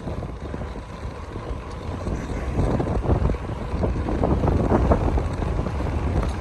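Wind buffeting the microphone on a moving bicycle, with irregular rattles and knocks from the bike riding over an uneven surface.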